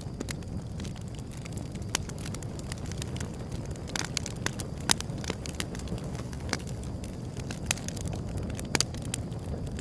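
Wood fire burning with a steady low rumble and irregular sharp crackles and pops, a few louder snaps among them.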